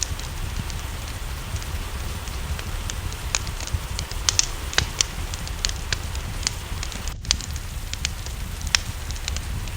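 Wood fire crackling, with irregular sharp pops over a steady low rumble, and rain hissing in the background. There is a momentary dropout about seven seconds in.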